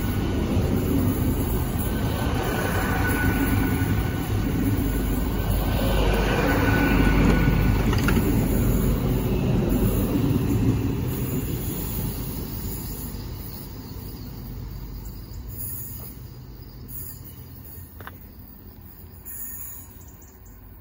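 A Great Western Railway Hitachi Intercity Express Train passes close by on the rails, a steady loud rumble with an engine hum. About halfway through, the sound fades away as the last coach clears and the train moves off.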